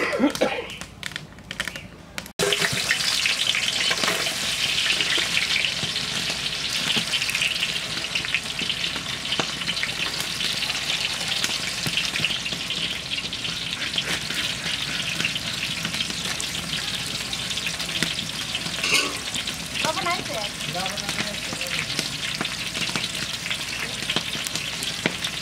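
Sliced onions frying in hot oil in a large aluminium cooking pot: a steady sizzle that starts abruptly about two seconds in.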